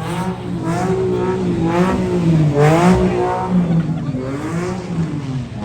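A motor vehicle engine revving up and down repeatedly over a steady low running note.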